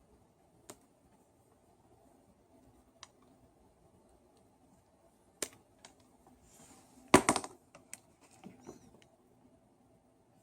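Scattered small clicks and taps of hand tools and small parts being handled during a power-tool repair, with a louder burst of clatter about seven seconds in.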